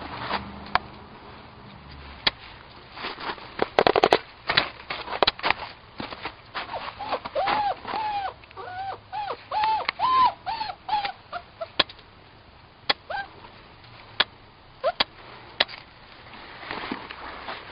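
Puppy giving a run of short high whimpers or yips, about two a second for several seconds, among scattered sharp clicks and knocks.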